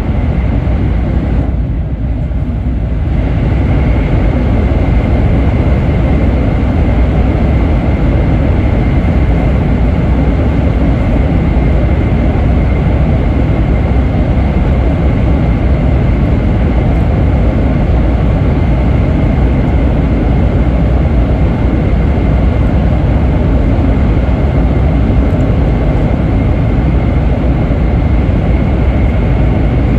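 Shinkansen train running at speed, heard from inside the passenger cabin: a steady, loud rumble of wheels and rushing air, with a faint steady high tone. The upper part of the noise briefly thins about two seconds in.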